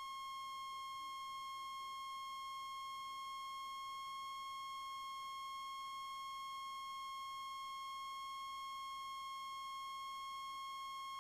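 A steady, unbroken electronic tone, fairly high-pitched with a buzzy edge, holding one pitch throughout; the cabin and engine noise are absent behind it.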